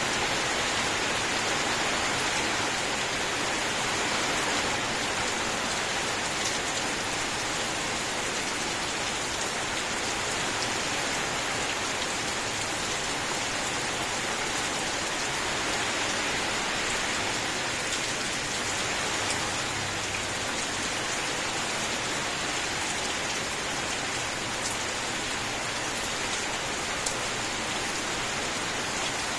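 Steady rain: an even, continuous hiss of rainfall with a few individual drops ticking through it.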